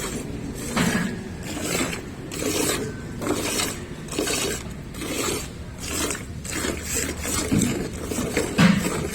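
Milk squirting in jets from a cow's teats into a pail during hand-milking, a hissing squirt about twice a second in a steady rhythm.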